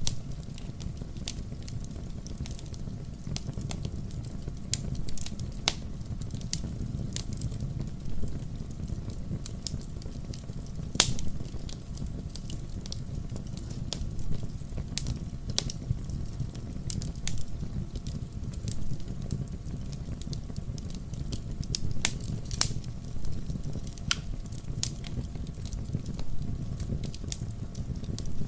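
Wood fire burning in a fireplace: a steady low rumble of flames with scattered sharp crackles and pops, one louder pop about eleven seconds in.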